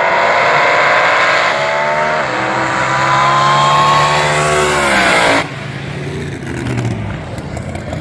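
Front-engine dragsters under full throttle on a drag-strip pass, engines climbing in pitch with a brief drop partway through and then rising again. About five seconds in the sound cuts off suddenly, leaving a quieter, lower engine rumble.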